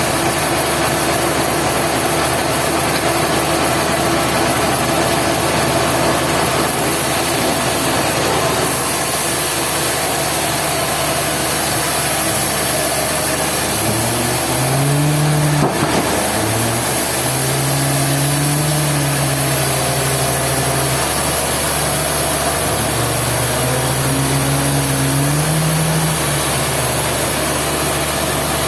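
Sawmill machinery running steadily with a loud, dense mechanical noise. In the second half a lower humming tone comes in, wavers and drops out several times.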